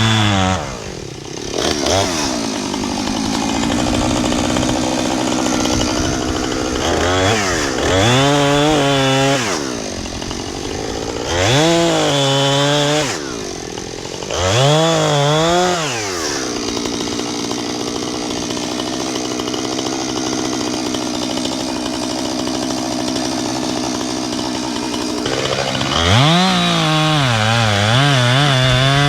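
Two-stroke chainsaw engine running at high revs, dropping to a low run about half a second in, then revved up and let back down three times, running steadily for a while and revving up again near the end.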